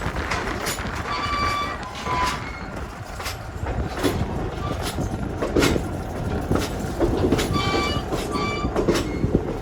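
A passenger railcar rolling along the track, heard from aboard: a steady rumble broken by scattered clicks and knocks from the wheels and running gear. A few short high squeals come about a second in and again near the end.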